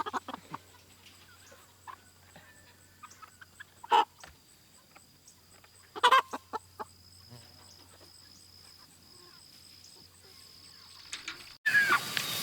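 Chickens clucking in short, scattered calls, the loudest about four and six seconds in, over a faint steady high insect drone. Near the end the sound cuts suddenly to louder insect chirring.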